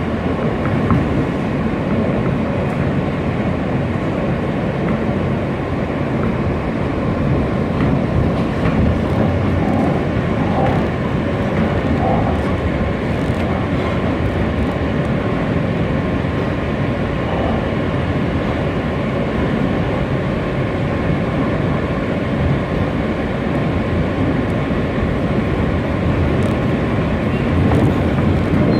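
New York City subway car on the W line running along the track, heard from inside the car: a steady rumble of wheels and running gear.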